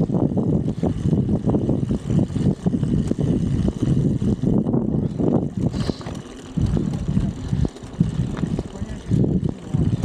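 Strong wind buffeting the microphone of a rider on a bicycle: a loud, gusty low rumble that eases briefly twice in the second half.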